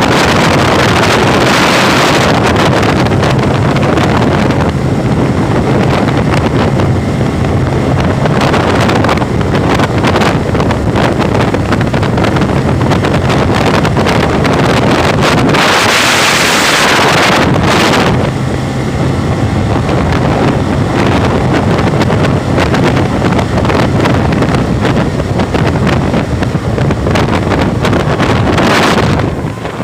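Jet boat engine running steadily on the river, with wind buffeting the microphone. A louder rush of noise comes about halfway through.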